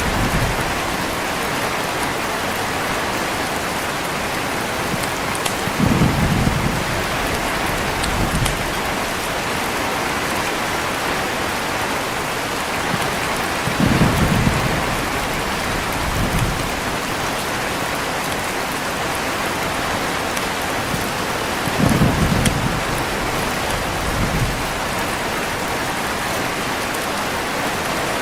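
Heavy, steady rain with low rolls of thunder that swell three times, about every eight seconds, each trailed by a weaker rumble.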